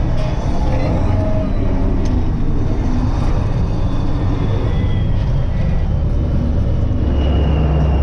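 Kirovets K-700A tractor's diesel engine, freshly overhauled and being run in, running steadily under work. Its low rumble gets heavier about seven seconds in.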